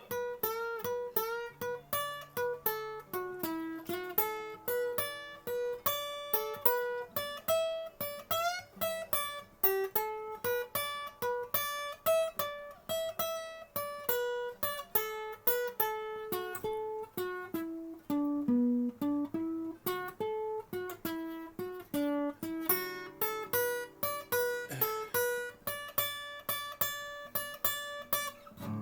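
Solo acoustic guitar played fingerstyle: a single-note melody of plucked notes, a few each second, moving up and down over lower bass notes.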